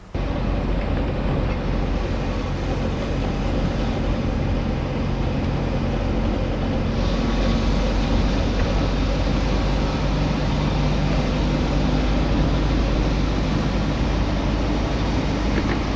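A car being driven, its engine and road noise running at a steady level, cutting in abruptly at the start.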